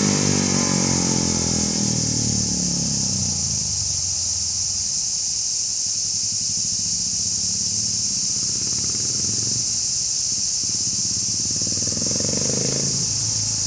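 Single-cylinder motorcycle engine falling in pitch and fading away over the first few seconds as it rides off, with a faint engine note rising again near the end. A loud, steady high hiss runs underneath throughout.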